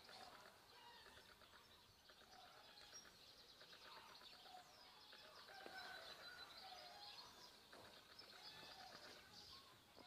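Faint birdsong: small birds chirping and twittering over quiet background hiss, busier in the second half.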